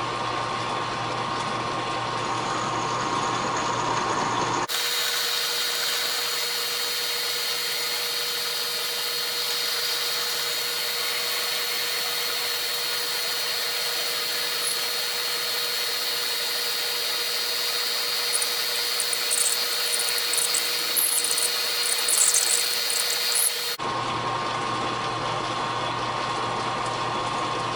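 Metal lathe running while a boring tool cuts inside a steel bore, a steady machine hum with fixed tones. Brief high squeaks come in the last third, from the tool rubbing on the back side of the cut, as the machinist suspects.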